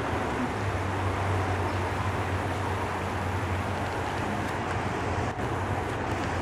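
Steady road-traffic noise, with a low hum swelling for a few seconds in the middle as a vehicle passes.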